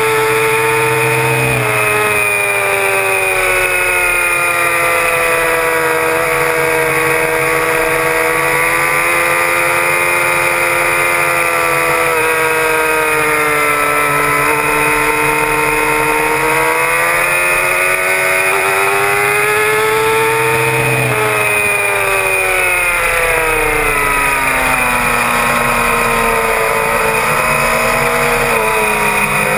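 Suzuki GSX-R750 K6's inline-four engine running hard at track speed, its pitch climbing and dipping with the throttle, with a sudden shift near the start and again about two-thirds through, then the revs falling away over the last several seconds. A steady rush of wind noise runs under the engine.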